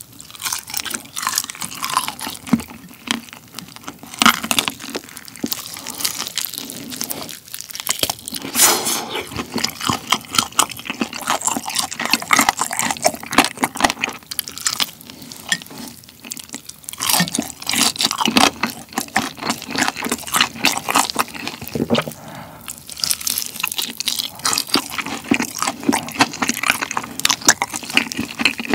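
Close-miked eating of a sauced Korean yangnyeom fried chicken drumstick: repeated crunching bites into the tip and crisp skin, with chewing between them, many irregular crunches one after another.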